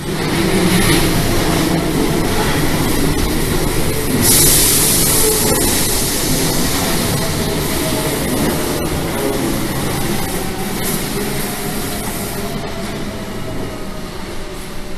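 Keio Line electric train passing close by, with a loud steady rumble and clatter of wheels on rails. A bright hiss comes in for about a second, about four seconds in, and a faint whine slowly falls in pitch in the second half.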